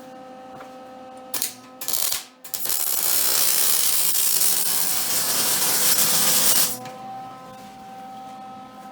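Electric arc welding on an ATV frame. There are two short sputtering starts about a second and a half in, then a steady loud hiss for about four seconds that stops abruptly. A faint steady hum with several tones runs underneath.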